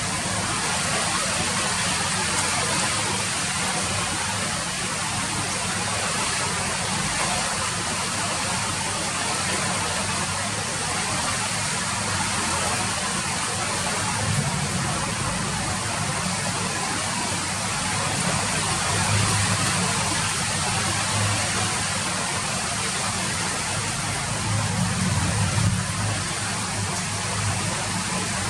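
Steady rain falling, an even hiss, with a low rumble underneath that swells twice near the end.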